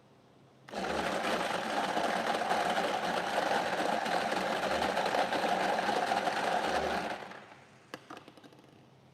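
Electric lottery ball machine running for about six seconds, its numbered balls rattling and tumbling together as they are mixed for the next draw, then stopping. A few light clicks follow near the end.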